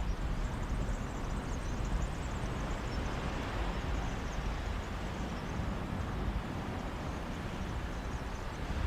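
Sea surf washing on a beach with wind: a steady rushing hiss over a low, gusting rumble of wind on the microphone.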